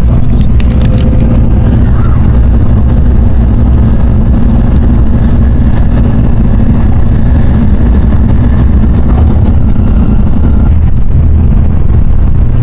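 Shinkansen bullet train running at speed, heard inside the passenger car as a loud, steady low rumble.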